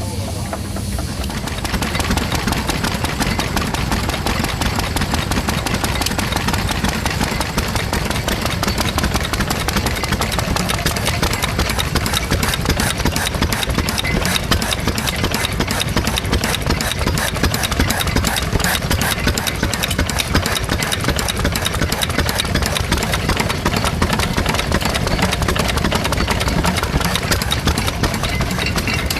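Stationary engine running steadily with a rapid, even knocking beat, starting about a second in.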